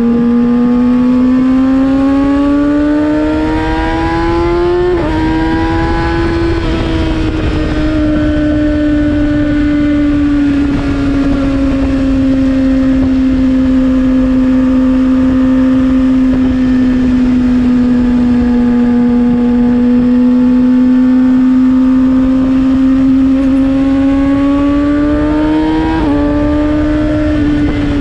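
Kawasaki ZX-6R's 636 cc inline-four running through an M4 slip-on exhaust, climbing in revs and then dropping sharply about five seconds in as it shifts up. It cruises at steady revs, climbs again, and shifts up once more near the end.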